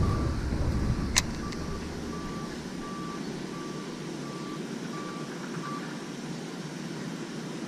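Electronic beeper sounding short, evenly spaced beeps of one pitch, a little under two a second, which stop about six seconds in. A low rumble fades out early on, and there is one sharp click about a second in.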